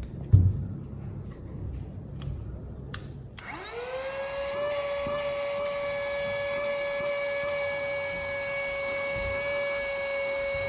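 Cordless handheld mini vacuum cleaner switched on about three and a half seconds in, its small motor spinning up quickly to a steady high whine. Before that, a few light plastic clicks and a knock as the unit is handled.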